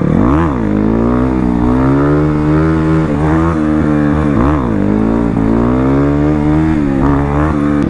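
Crossfire RM250 dirt bike engine running hard, its note dipping briefly and climbing back several times as the throttle is worked.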